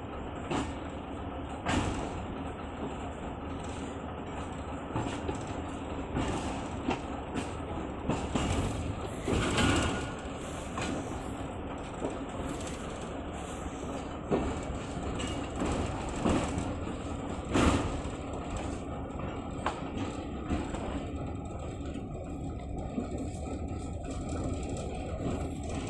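Passenger train running, a steady rumble with irregular knocks and rattles, the loudest about a third of the way in.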